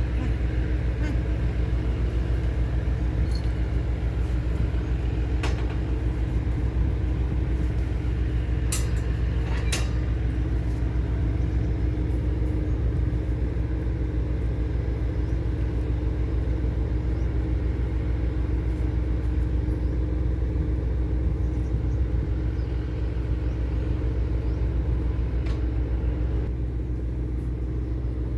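Tugboat's diesel engine running with a steady low drone while it tows loaded cargo barges, with a few short clicks over it. The engine eases slightly quieter near the end.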